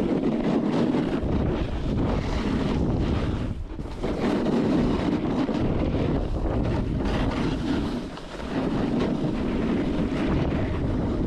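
Wind rushing over the microphone during a fast snowboard descent, mixed with the board's edges scraping over firm groomed snow. It swells and eases briefly twice, about four and eight seconds in.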